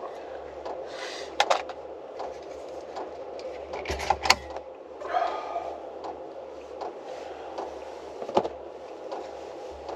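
A few scattered knocks and clicks with soft rustling, as of bedding and gear being handled in a small enclosed space, over a steady low hum.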